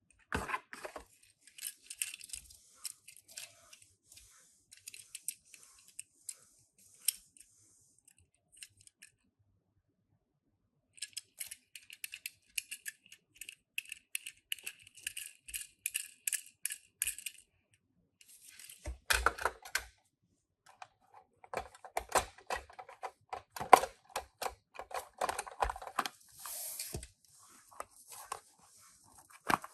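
Hands handling toy packaging and die-cast mini cars: bursts of crinkling, tearing and small clicks and rattles, with a brief pause near the middle and busier handling in the last third.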